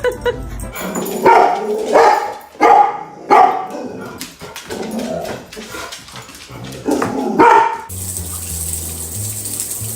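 Dog barking repeatedly: several loud barks in the first few seconds, softer sounds between, and more barks about seven seconds in. Background music takes over about eight seconds in.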